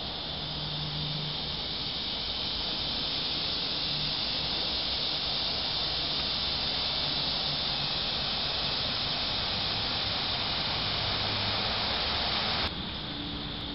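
Steady outdoor insect chorus, a dense high-pitched hiss-like drone of crickets or cicadas over broad background noise, dropping abruptly to a quieter level near the end.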